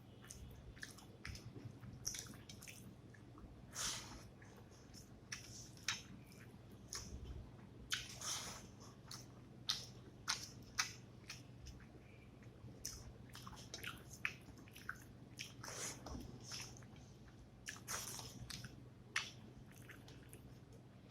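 Close-up eating sounds of rice with fish curry: wet chewing, squishing and lip smacks in irregular short bursts, over a low steady hum.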